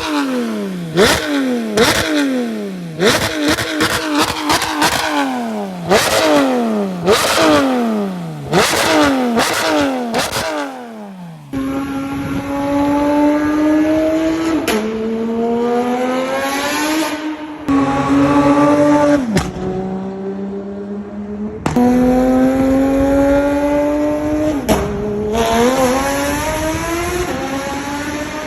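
Porsche 991.2 GT3 RS naturally aspirated flat-six through headers and a Valvetronic Designs exhaust, blipped to high revs about once a second with the pitch falling straight back and crackling pops on the overrun. Then it pulls through the gears, the pitch climbing steadily and dropping sharply at each upshift, three times.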